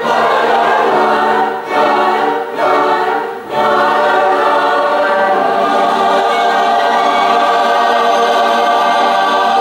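A choir singing in several voices: a few short phrases, then a long held chord from about three and a half seconds in until the end.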